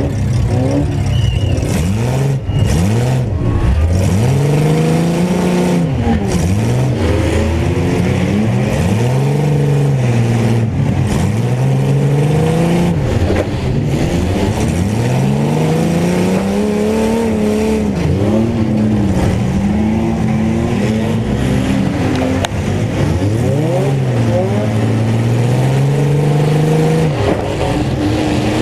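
Several mini pickup trucks racing, their engines revving up and dropping back again and again as they accelerate and lift off, with more than one engine heard at once.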